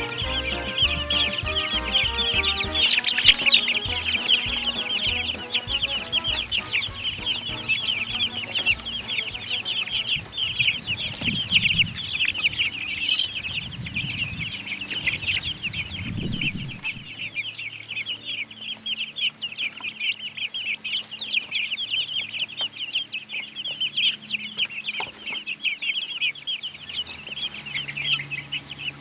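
A brood of baby chicks peeping continuously: many short, high-pitched chirps overlapping in a steady chorus.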